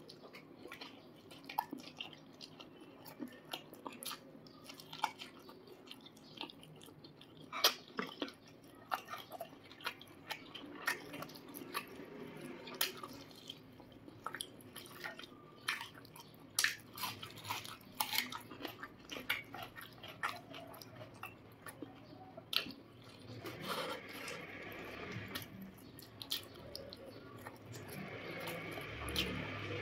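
A person chewing and biting food close to the microphone, with many small irregular mouth clicks.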